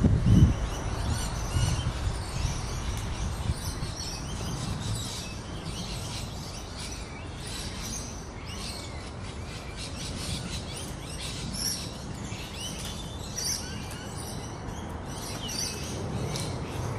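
Birds chirping: many short, high calls scattered throughout, over a low rumble that dies down in the first second.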